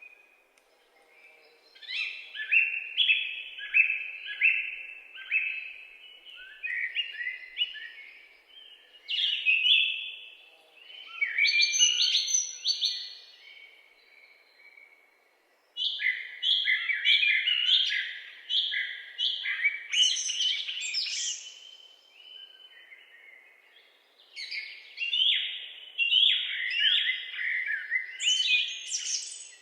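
Songbirds singing in the woods: phrases of quick, repeated high chirps lasting a few seconds each, broken by short pauses, over a faint steady outdoor background.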